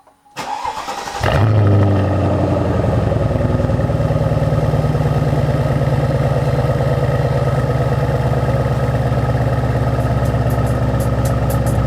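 Mercedes-Benz SL500's V8 cold-starting: the starter cranks for about a second, the engine catches with a brief surge in revs, then settles into a steady fast idle.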